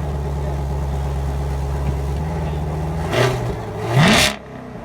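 Chevrolet Camaro SS V8 idling steadily, then revved twice in quick blips about three and four seconds in, the second louder with a quick rise in pitch before it falls back.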